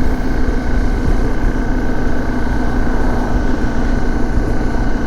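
Dirt bike engine running at a steady speed while riding, its note held even, over a strong low rumble of wind on the microphone.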